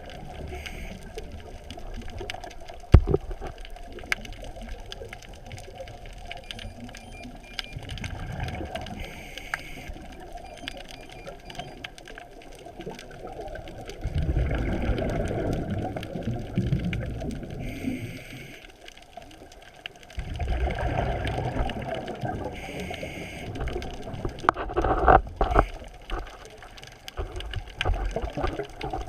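Underwater sound of a scuba diver breathing through a regulator: rumbling bursts of exhaled bubbles lasting a few seconds each, several times, over a low steady murmur of water.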